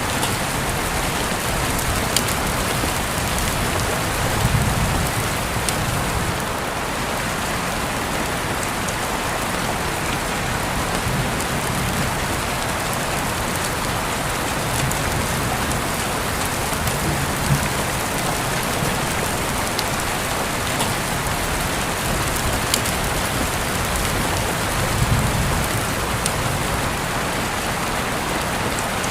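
Steady rain falling on a surface, an even hiss with scattered sharp drop ticks and a few soft low swells.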